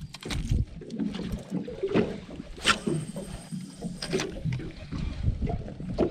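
Strong wind buffeting the microphone in an uneven low rumble, with water lapping against a small boat's hull and two sharp knocks about a second and a half apart near the middle.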